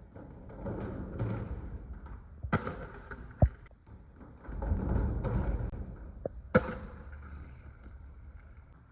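Skateboard wheels rolling over concrete, with several sharp clacks of the board striking the ground, the loudest about three and a half and six and a half seconds in.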